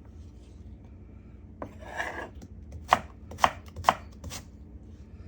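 Kitchen knife chopping on a cutting board: five separate sharp knocks, the first about a second and a half in and the rest in quick succession, with a short rustle of food being moved between them.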